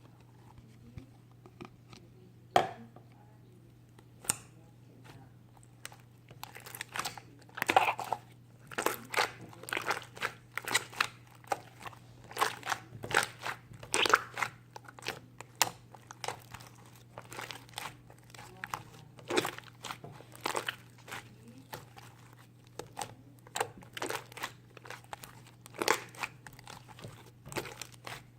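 Irregular crinkling and crunching handling noises: many short, sharp clicks and rustles, sparse at first and coming thick and fast from about six seconds in, over a faint steady low hum.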